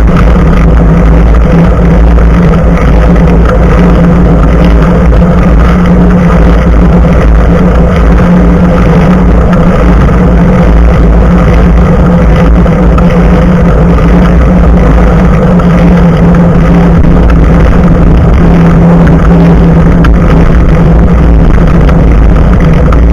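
Bicycle riding heard through an action camera's own microphone mounted just above the front tyre: loud, steady rumble of wind and tyre on the road, with a constant low hum.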